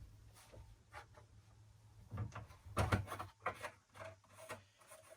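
Irregular knocks and clatter of things being handled, loudest in a cluster about two to three seconds in.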